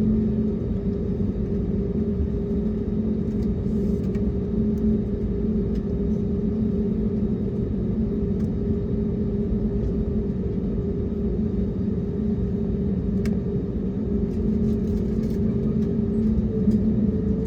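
Airbus A321neo cabin noise in flight: a steady low rumble with an even engine hum, its pitch shifting slightly near the end.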